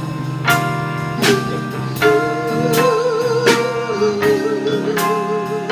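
Live band playing an instrumental passage of a slow ballad. A percussive stroke with a ringing chord falls about every three-quarters of a second, and a held melody note with vibrato runs through the middle.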